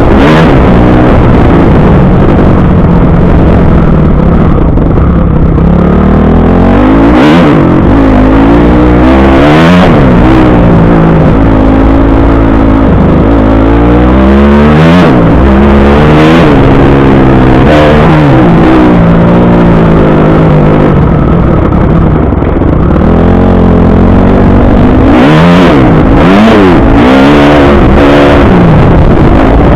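Motocross bike engine ridden hard around a track, its revs climbing and dropping over and over with the throttle and gear changes, loud throughout.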